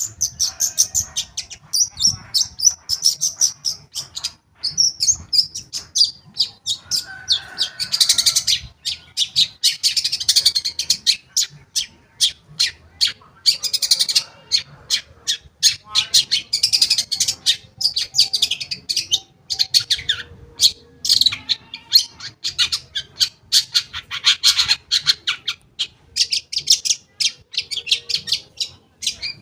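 Long-tailed shrike (cendet) singing a fast, unbroken chattering song of short notes, broken every few seconds by harsh, scratchy bursts: a full song laced with mimicry, used as a lure to set other shrikes singing.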